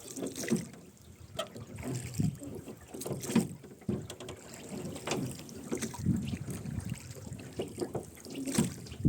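Rowboat being rowed: oars splashing and dipping stroke after stroke, with the oarlocks creaking and knocking.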